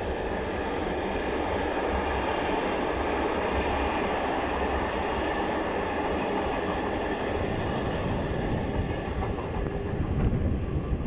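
Container wagons of a long intermodal freight train rolling past on the main line, a steady loud running noise of steel wheels on the rails.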